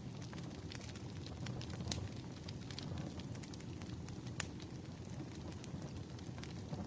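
Firewood burning: a steady low rumble of flames with frequent sharp crackles and pops at irregular intervals, a few of them louder.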